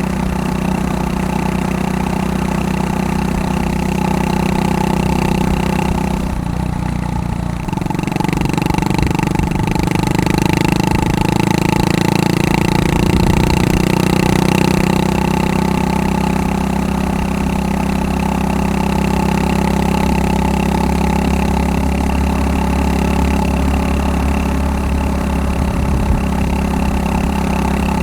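Honda Super Cub 110's air-cooled single-cylinder four-stroke engine running steadily through a Takegawa P-Shooter aftermarket muffler. About six seconds in, the note drops away briefly, then settles into a steady note again.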